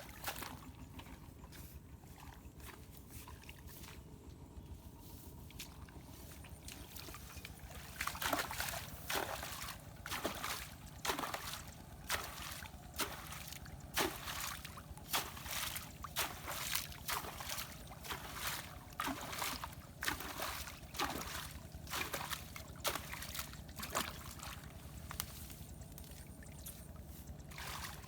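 Steady trickle of running water; about a third of the way in, repeated splashing and sloshing begins, one or two splashes a second, easing off near the end.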